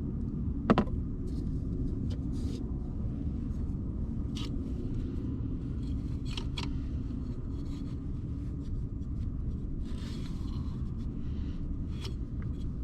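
A steady low rumble with a few light clicks of small things being handled, and a sharper knock about a second in.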